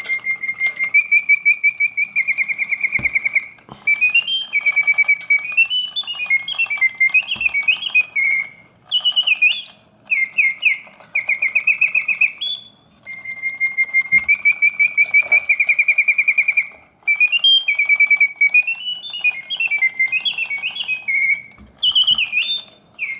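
Vintage Reuge double singing bird cage's mechanical birdsong: a bellows-driven whistle sounding in long trilled notes and quick rising-and-falling glides, in phrases separated by short breaks, with the song repeating in continuous mode.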